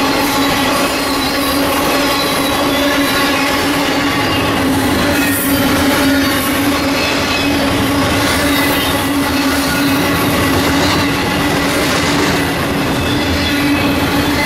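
Double-stack intermodal freight cars rolling past at close range: a loud, continuous rumble of steel wheels on rail with a steady humming tone running through it.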